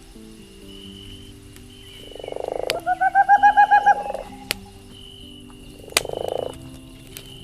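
Nature-sound mix: an animal call of rapid pulses, about ten a second, rings out once, with a breathy low call just before it and another near the end. Faint campfire crackles and soft sustained notes run underneath.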